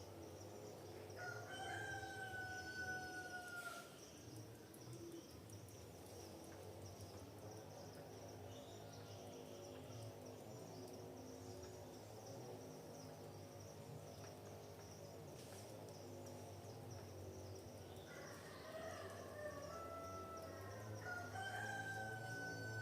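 Rooster crowing twice: a long, slightly falling crow about a second in, and another near the end. A steady high insect buzz sits beneath.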